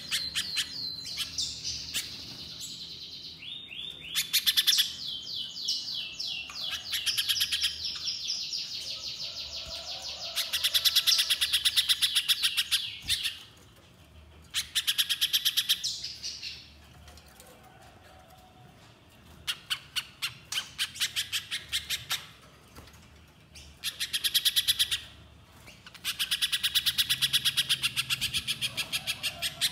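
Spiderhunter (pijantung pisang) calling: long bouts of rapid, high chips run together into fast trills, broken by a few short pauses.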